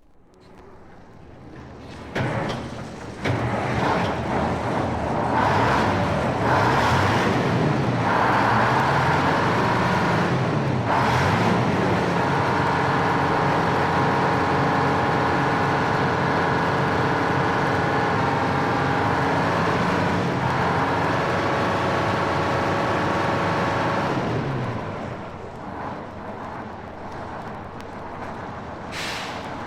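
A motor vehicle engine builds up from silence and rises and falls in pitch, then runs at a steady pitch for about twelve seconds before dropping away about 24 seconds in.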